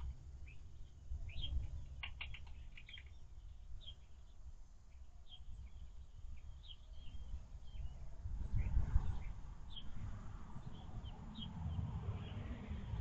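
Small birds chirping: many short, high, falling chirps scattered throughout, a quick cluster of them about two seconds in. Under them runs a low rumble that grows stronger in the second half.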